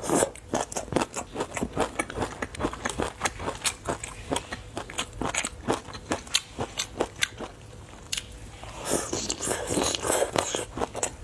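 Close-miked chewing of braised chicken feet: a steady run of wet, crackling mouth clicks and small crunches. A louder, busier stretch of chewing comes about nine seconds in.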